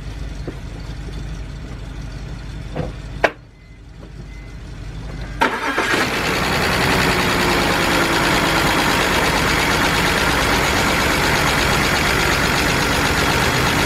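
BMW 328i inline-six engine starting about five seconds in after a click and a short lull, then running at a steady idle with a slight misfire from bad ignition on cylinders 3 and 4.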